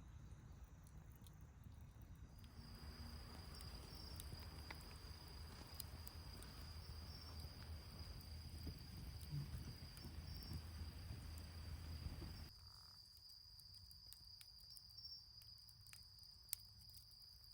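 Faint wood fire burning in a fire pit, with scattered sharp crackles over a low hum, and a thin steady high-pitched tone from about two seconds in. The low hum drops away near the end.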